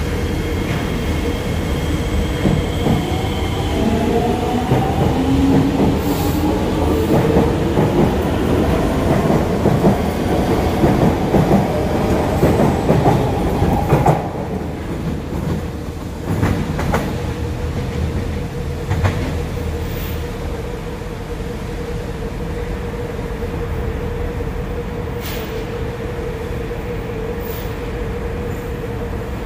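An MRT train pulls away from the platform, its traction motors whining in rising steps of pitch as it gathers speed over a loud rumble. About halfway the sound cuts off suddenly. What follows is a quieter rail rumble with a steady hum and a few clicks as another train runs along the track.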